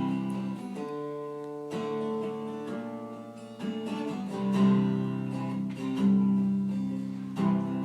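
Acoustic guitar strumming the opening chords of a song, each chord struck and left to ring for a second or two.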